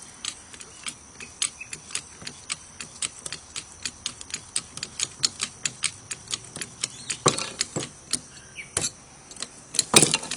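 Rapid, even ticking, about three to four sharp clicks a second, with two heavier knocks about seven seconds in and a louder clunk near the end.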